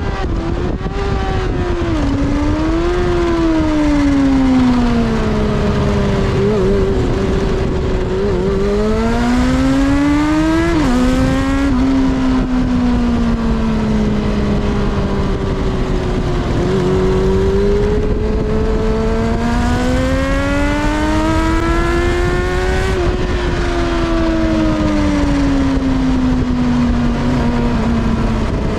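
Kawasaki ZXR400's inline-four engine heard from on board at speed, the revs climbing and falling several times through the gears, with wind rush underneath.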